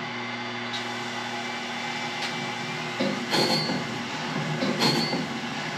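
Wood-Mizer BMS250 bandsaw blade sharpener running, its motor humming steadily; from about three seconds in, the grinding wheel strikes the blade's teeth one after another, a short grind with a high squeal about every one and a half seconds.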